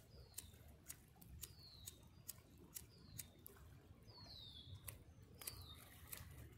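Faint bird calls: a short, high whistle falling in pitch, repeated roughly once a second, the clearest about four seconds in, with scattered faint clicks.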